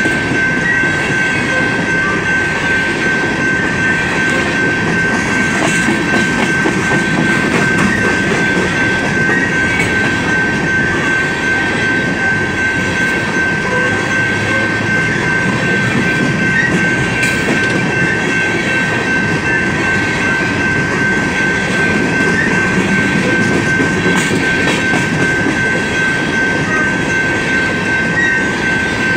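Coal train gondolas rolling past at a grade crossing: a steady rumble of steel wheels on rail with clickety-clack over the rail joints. A thin, constant high tone sounds throughout.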